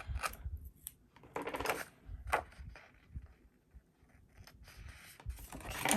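Scissors snipping and paper being handled: a few light clicks and short rustles, the longest rustle about a second and a half in.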